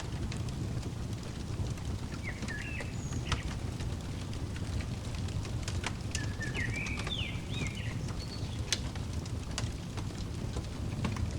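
Fireplace crackling, with scattered sharp pops over a steady low rumble, and short bird chirps twice: once about two seconds in and again in a quick run around seven seconds in.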